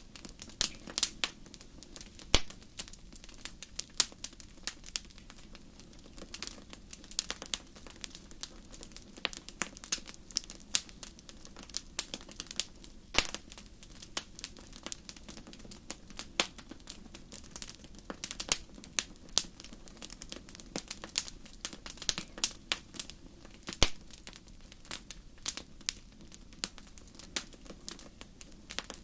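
Wood campfire crackling: irregular sharp pops and snaps, a few much louder than the rest, over a faint low steady rumble.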